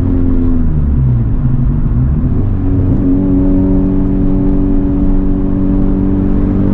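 Honda Civic Type R's turbocharged four-cylinder engine and modified exhaust (catless downpipe, resonators deleted) heard on the move. The engine pitch falls and wavers for the first few seconds, then holds steady from about three seconds in.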